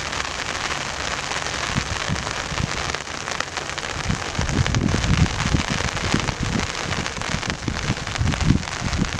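Steady rain falling, an even hiss, with irregular low buffeting on the microphone from about four seconds in.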